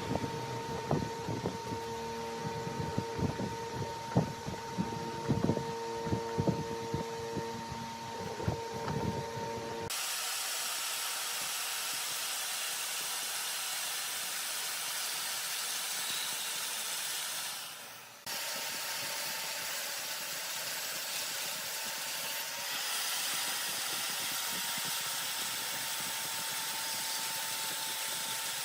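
Large wood lathe running with a steady hum, with irregular knocks for the first ten seconds. After a cut comes a steady hiss, typical of a tool cutting the spinning wood.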